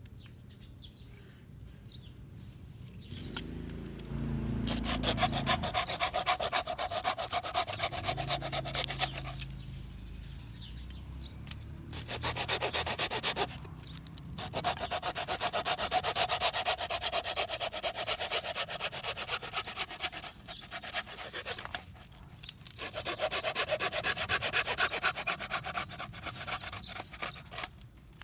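Hand saw cutting through dead pine for fatwood, a rapid rasping in four long runs of strokes with short pauses between them.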